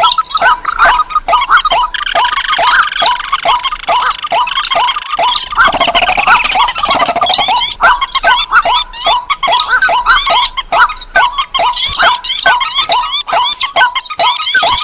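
A lure recording of rice-field and swamp birds (rails, crakes and waterhens) calling over one another: short calls repeat about three times a second in a dense chorus. A harsher chattering stretch joins in about two seconds in and fades about five seconds later.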